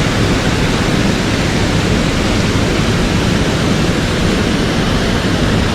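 Mountain stream water rushing over rocks in a steady, loud, unbroken rush.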